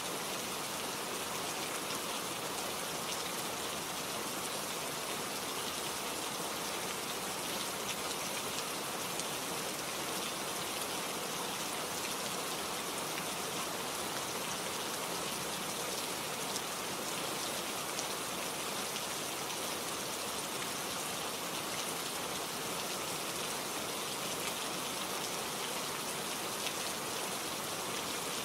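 Steady rain falling on a tropical flower: an even hiss of many drops, with a few louder single drops standing out.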